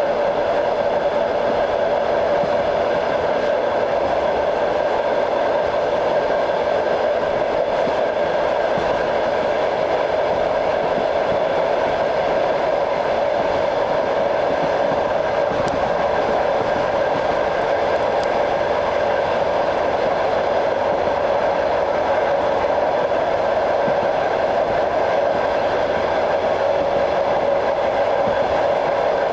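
Train wheels running on the rails, heard from on board a moving train: a steady, even rail noise with the clatter of the wheels over the track.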